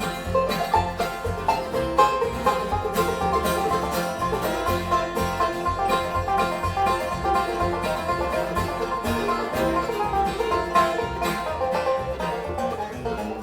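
Bluegrass band playing an instrumental break on acoustic string instruments, with quick picked banjo notes over a steady rhythm.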